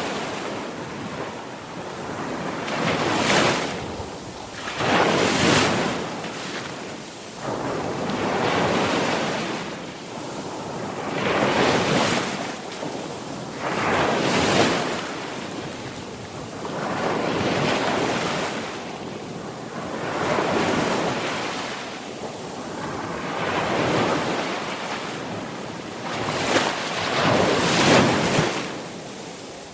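Sea waves breaking and washing onto a shore, one swell every two to three seconds.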